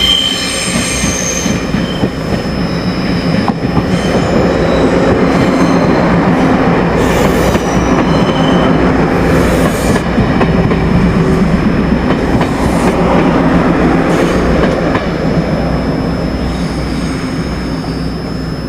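Train passing through a station: steel wheels running on the rails with a loud rumble that builds, holds, then fades near the end, and high-pitched wheel squeal near the start.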